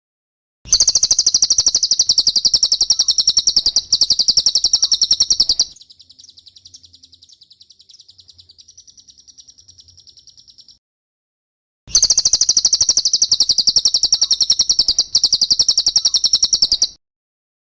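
Cililin bird song from a masteran recording: a loud, very rapid, high-pitched trill lasting about five seconds, followed by a softer trill and a short pause, then another loud five-second trill.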